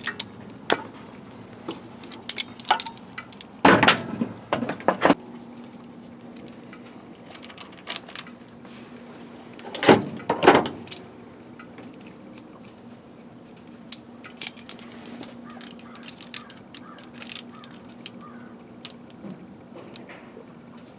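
Hand tools clinking and clanking against metal while working on an engine, with scattered sharp clicks and two louder clatters, about four seconds and ten seconds in. A faint steady hum runs underneath.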